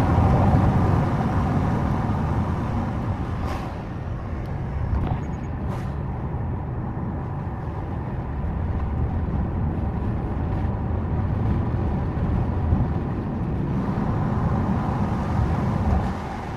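Steady road and engine noise inside a Subaru Forester's cabin while driving, mostly a low rumble.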